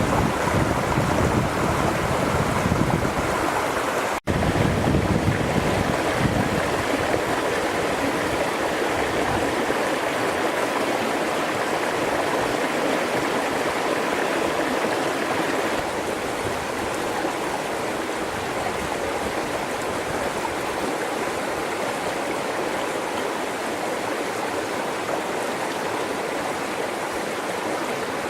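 Flowing river water, a steady rushing wash, with a deeper rumble in the first several seconds and a brief dropout about four seconds in.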